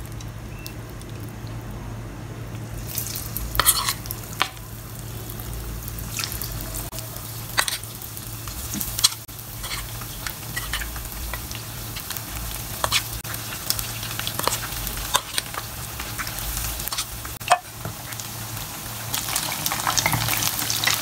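Flour-coated chicken wings frying in hot oil: the sizzling starts about three seconds in as the first pieces go into the pan and grows louder as the pan fills. Scattered sharp clicks and knocks come through the sizzle.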